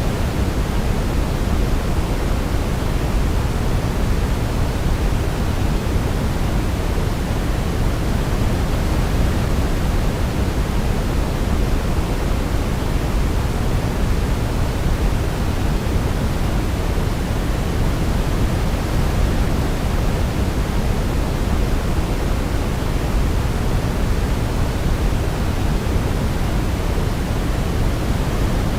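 Steady sleep-aid noise: an even, unbroken rushing hiss, deeper than pure white noise, with no melody to be heard.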